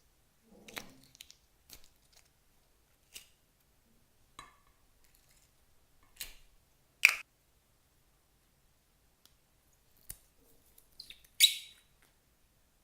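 Clear slime being worked by hand with makeup mixed in, giving a scattered series of short sharp clicks and pops. The loudest come about seven seconds in and near the end.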